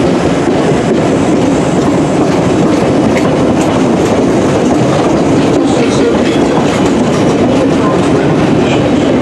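London Underground 1962 Stock train, working as the Central Line rail adhesion train, running past along the platform: a loud, steady noise of wheels on the rails.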